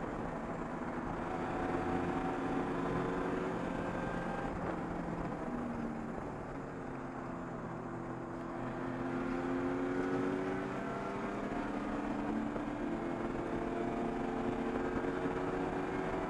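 Race car engine heard from inside the stripped, roll-caged cabin, running hard on track with its pitch climbing. About halfway through it eases off briefly, then pulls and climbs again.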